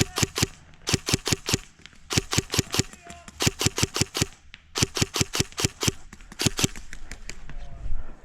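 Airsoft guns firing rapid strings of sharp shots, about five or six a second, in several runs with short pauses between them, thinning out near the end.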